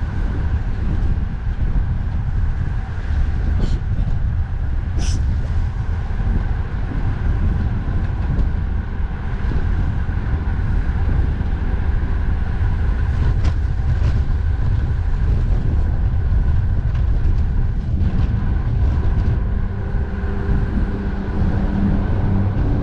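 Steady wind rumble on the microphone of a moving bicycle, mixed with the drone of road traffic.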